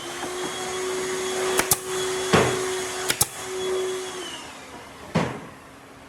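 An electric power tool's motor runs with a steady whine for about four seconds, then winds down. Several sharp knocks sound over it, and one more comes after it stops.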